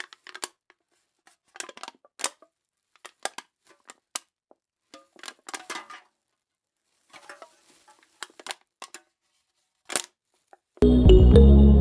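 Sparse small clicks and short scraping or snipping sounds, scattered irregularly; loud background music comes back in near the end.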